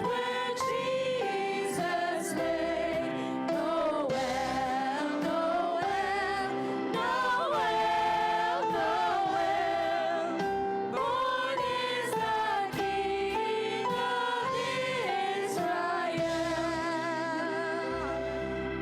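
Children's choir singing a song with musical accompaniment, voices holding long, wavering notes.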